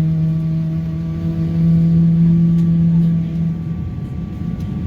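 Jet engine of a Boeing 777, a GE90, heard from inside the cabin: a steady low drone with a rumble beneath it. The drone fades about three and a half seconds in, leaving the rumble.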